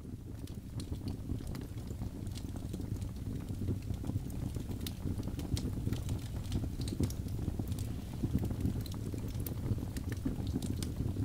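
Birch-log fire burning in a fireplace: a steady low rumble of flame with many sharp crackles and pops at irregular intervals.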